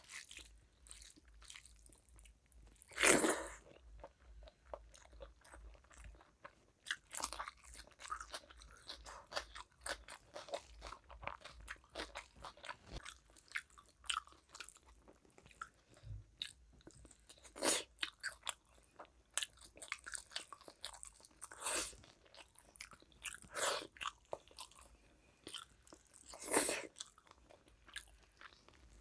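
Close-up chewing and mouth sounds of a person eating rice with fish curry by hand: irregular small crunches and wet smacks, with a handful of louder crunches, the loudest about three seconds in. The squelch of fingers mixing rice into curry on the plate is mixed in.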